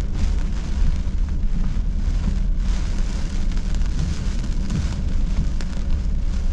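Heavy hurricane rain on the car, heard from inside the cabin over a steady low rumble from the moving car and the wind.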